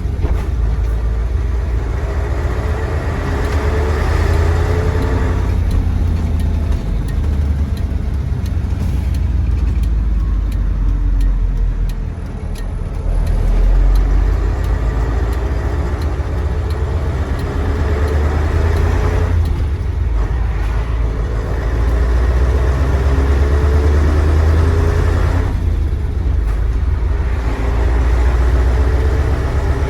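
Mercedes-Benz 1729 truck's OM442 V8 diesel pulling under load while driving, with a heavy low rumble. Its pitch climbs several times and drops back in between, as it accelerates through the gears.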